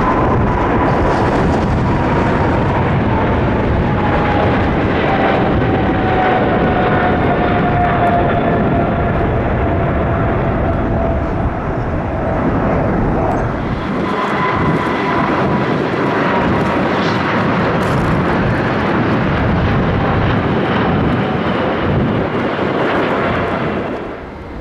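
Jet airliner passing close by with its engines running loud, a whine in the engine noise sliding slowly down in pitch as it goes past; the noise eases off near the end.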